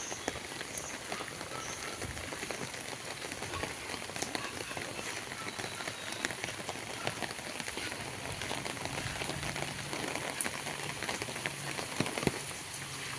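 Steady rain falling, a patter of many small drops hitting surfaces.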